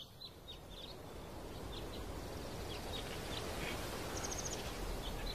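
Small birds chirping in short high calls every second or so, with one quick trill about four seconds in, over a steady rushing noise.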